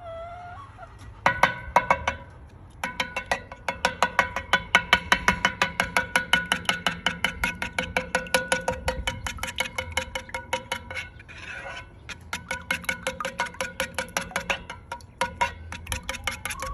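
A metal utensil striking a metal pan rapidly and repeatedly, several strikes a second, each hit ringing, as eggs and eggshells are chopped up in the pan; it pauses briefly twice.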